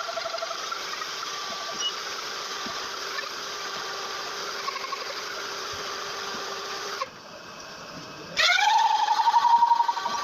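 Toyota 15B four-cylinder diesel engine running steadily. About seven seconds in it dips briefly, then revs up with a rising pitch and holds at a higher, louder speed near the end.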